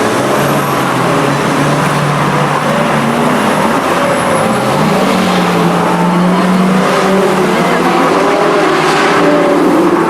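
Supercar engine running loud, its note stepping up in pitch about halfway through, over the noise of other cars.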